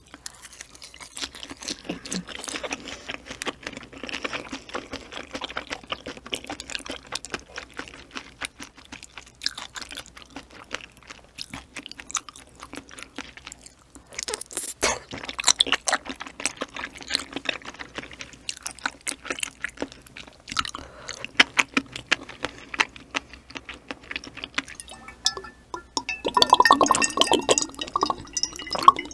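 Close-miked chewing of springy ocean sunfish jelly wrapped in crisp dried laver, with wet mouth clicks and small crunches. Near the end come gulps of a drink from a bottle.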